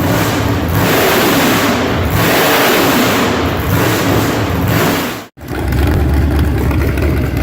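Engine running and revving loudly, with an abrupt cut about five seconds in.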